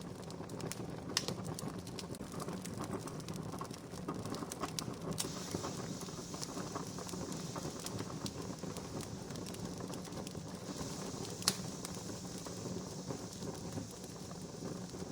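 Wood campfire burning with a steady crackle and scattered sharp pops, two louder pops standing out near the start and about three-quarters of the way through.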